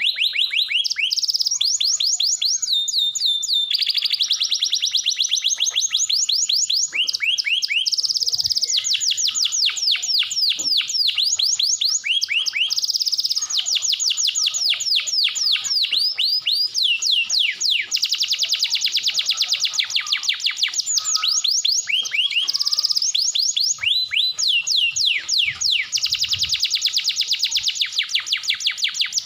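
Domestic canary singing a long, unbroken song of fast trills: rapid runs of repeated, high, downward-sliding notes, switching from one trill to another every second or two.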